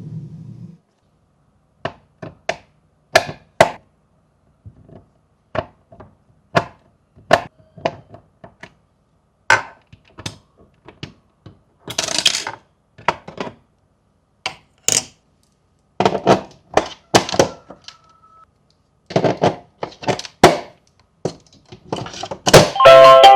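Irregular clicks, taps and knocks from handling a DIY fidget board and its toys, one or a few at a time with short silent gaps between. A chiming tune starts near the end.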